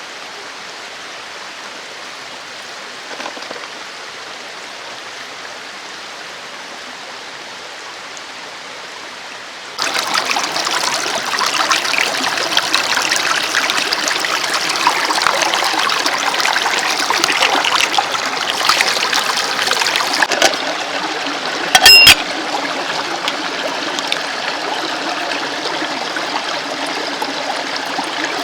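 Mountain stream running over rocks, a steady rush of water that jumps abruptly louder about ten seconds in. A short sharp click sounds once, about three-quarters of the way through.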